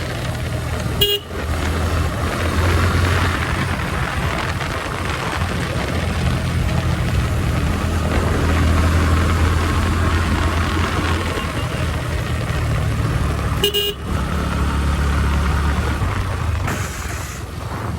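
Motorcycle engine running under way at road speed, its note rising and falling, with a steady rush over it and two brief breaks where the engine note drops, about a second in and again near fourteen seconds.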